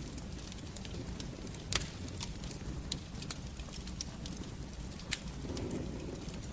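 Fire in a fireplace crackling: irregular sharp pops and snaps over a low steady rumble of flames, with two louder pops, one about two seconds in and one about five seconds in.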